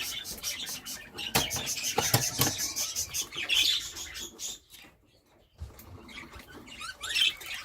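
Budgerigars chirping and chattering, mixed with many short clicks and rustles of birds moving about the cage. The sound drops away briefly about five seconds in, then the chirping resumes.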